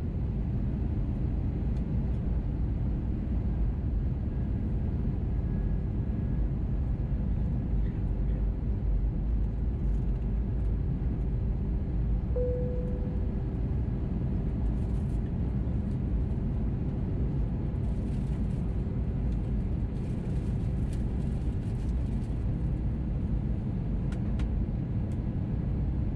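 Steady low rumble of an Airbus A321neo heard from inside the cabin at a window seat over the wing, with a faint steady hum and a brief tone about halfway through.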